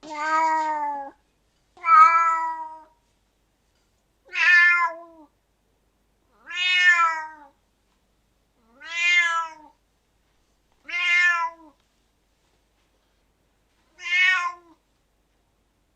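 Domestic cat meowing, seven separate meows about two seconds apart, each rising then falling in pitch, with a longer pause before the last.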